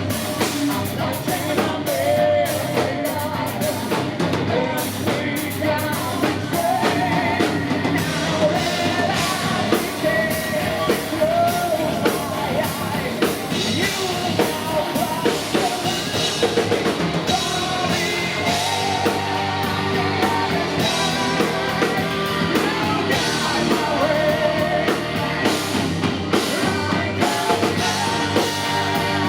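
Heavy metal band playing live: guitars, drum kit and a lead singer's voice, loud and unbroken.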